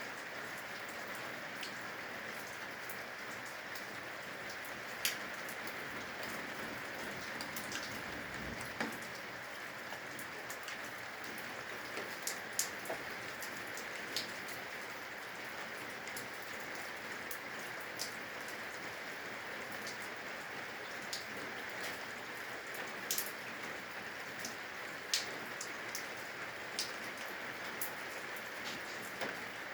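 Steady rain with water dripping from the eaves, single drops ticking sharply now and then over an even hiss.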